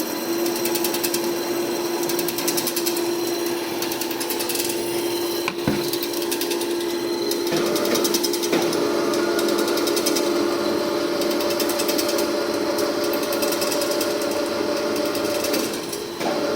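Bode VP2 welding positioner's electric drive and gearbox running at a steady speed, giving a steady hum. A single sharp knock comes about five and a half seconds in, and a second, higher whine joins about halfway through and stops shortly before the end.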